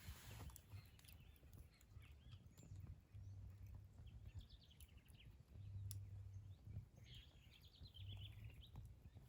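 Faint birds calling: scattered short chirps and two quick chattering trills, one about four seconds in and another about seven seconds in, over a low rumble.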